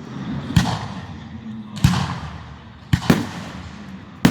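Aerial fireworks shells bursting in a display: five sharp bangs, two of them in quick succession near the middle, each trailing off in a rolling rumble.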